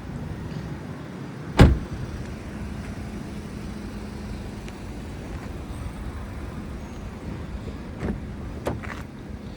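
A car door, most likely the Volkswagen Jetta's, shuts with one loud thump about a second and a half in, over a steady low hum. Two lighter knocks come near the end.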